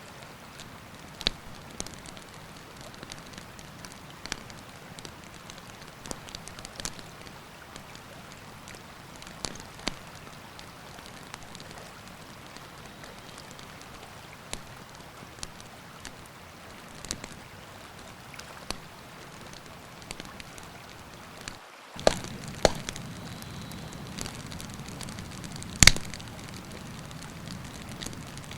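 Campfire crackling, with scattered sharp pops over a steady rushing of river water. About 22 seconds in the sound cuts out for a moment and returns with a louder, fuller rush and more pops.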